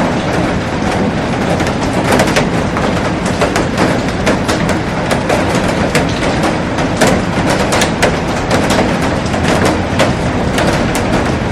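Heavy rain falling on a glass roof and garden: a loud, steady rush with many sharp taps of individual drops striking the glass.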